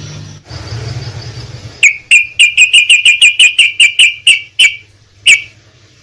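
Yellow-vented bulbul (trucukan) calling: a fast run of sharp, loud whistled notes at about six a second, broken off and followed by one last note. The run comes after a low rumble in the first couple of seconds.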